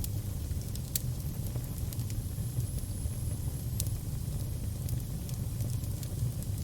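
Fire burning with a steady low rumble and irregular sharp crackles and pops from the burning wood.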